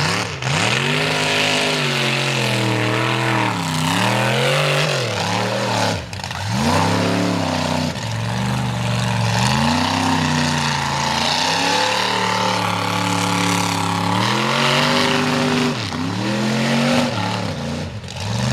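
Mega truck engine revving hard through a mud bog, its pitch climbing and falling again and again as the throttle is worked.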